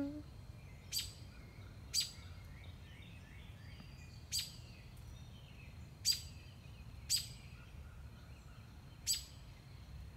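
Birds calling in the trees: six short, sharp chip notes one to two seconds apart, with fainter warbling birdsong between them over a low, steady background hum.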